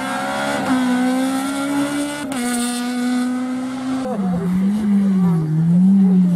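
Rally car engine revving hard, its pitch climbing and then dropping at a gear change about two seconds in. From about four seconds in it rises and falls repeatedly as the throttle is worked on and off.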